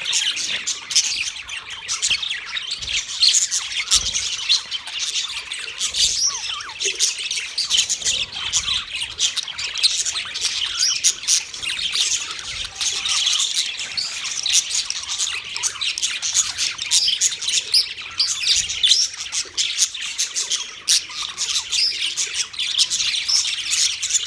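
A large colony of budgerigars chirping and chattering all at once, a dense continuous mass of short high chirps and squawks from many birds.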